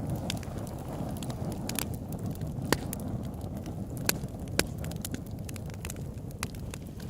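Campfire burning: sharp crackles and pops of burning wood, the strongest about a third of the way in and twice just past the middle, over a steady low rumble of flames.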